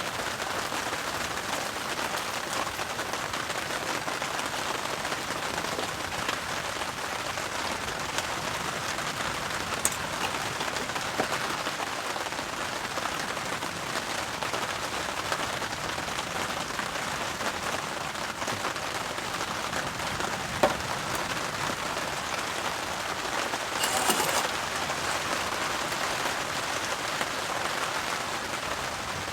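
Steady rain falling on an extra-heavy-duty tarp overhead. One sharp knock and a brief clatter come about two-thirds of the way through.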